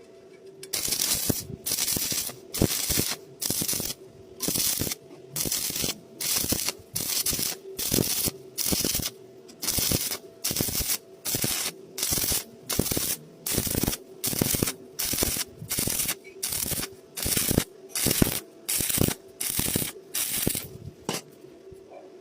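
Rhythmic hand scraping strokes on metal, about three every two seconds with short pauses between, as in brushing or sanding a weld. A faint steady hum runs underneath.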